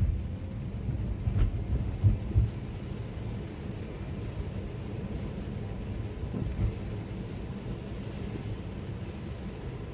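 Steady low road and tyre rumble inside a Tesla's cabin while it drives, with a few short thumps about a second and a half to two and a half seconds in and another near the end.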